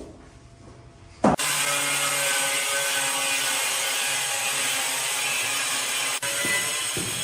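A power tool starts abruptly about a second in and runs steadily with a dense hiss, with a brief dip near six seconds.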